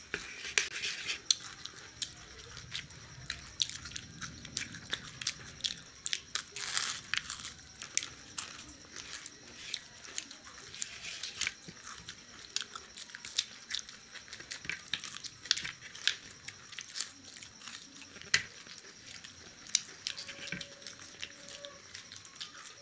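Close-up eating sounds of people biting and chewing fried pakoras: irregular small clicks and wet mouth sounds of chewing.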